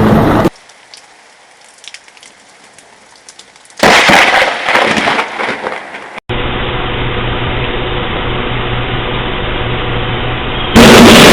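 A thunderstorm. Faint rain with scattered small clicks, then about four seconds in a close lightning strike: a sudden loud crack of thunder that rumbles away over a couple of seconds. After that comes a steady, muffled rain hiss with a faint low hum, and near the end a very loud rush of noise starts abruptly.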